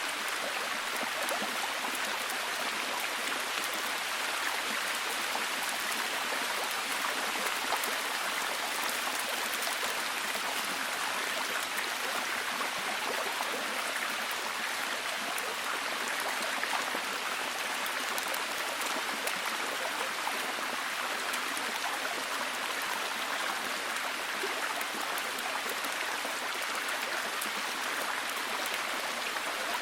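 Steady heavy rain: a dense, even hiss with a fine patter of drops and no change in strength.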